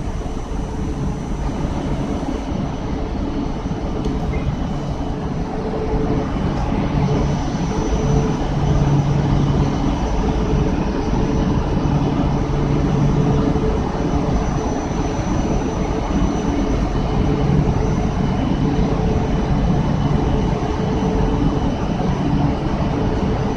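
E4 series Max double-deck Shinkansen standing at the platform with its on-board equipment running: a steady hum and rush with a few faint steady tones and no change in pitch.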